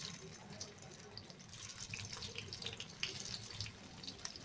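Kabab patties sizzling in hot oil on a flat tawa griddle as more are laid in: a steady crackle with many small pops.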